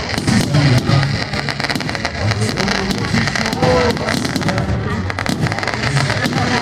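Fireworks or firecrackers popping rapidly and irregularly, many cracks a second, over hymn music playing from a sound system.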